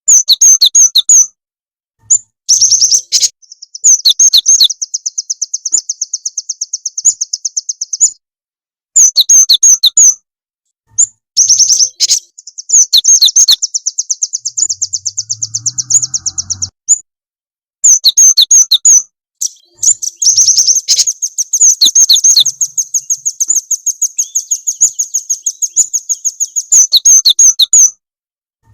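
Recorded calls of small songbirds played as a lure: bouts of rapid, high-pitched chattering trills, each lasting one to several seconds and separated by short pauses, with two long unbroken trills near the middle and the end.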